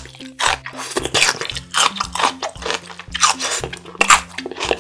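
Raw celery stalk being chewed close up: a run of crisp crunches, about three a second, over soft background music.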